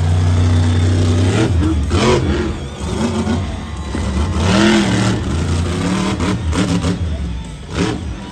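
Monster truck engine running and revving, its pitch rising and falling several times.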